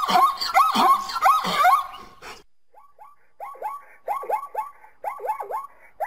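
Zebra calling in a rapid series of barking calls, each swooping up and down in pitch. A little over two seconds in, the sound cuts to a quieter recording of the same barking calls.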